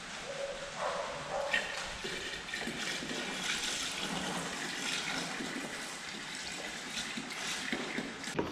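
Radiator coolant gurgling and splashing as it is siphoned out of a race car's radiator into a container.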